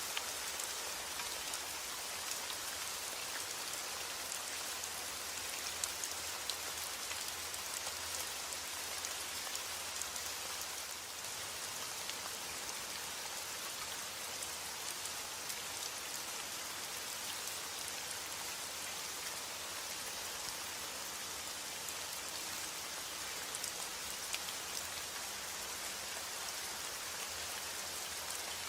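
Steady heavy rain falling on a roof: an even hiss with many separate drops ticking through it.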